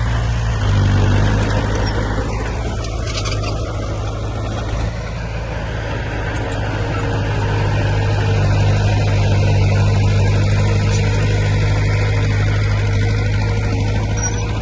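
Heavy diesel earthmoving machinery running under load, a steady low engine note that shifts in pitch a couple of times and grows louder in the second half.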